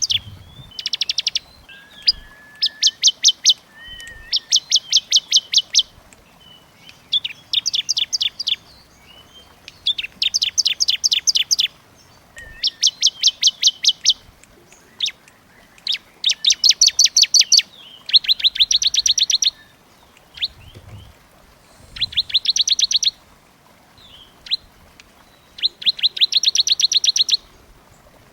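Small songbird singing in rapid, evenly repeated trills: about a dozen high bursts of a second or two each, separated by short gaps.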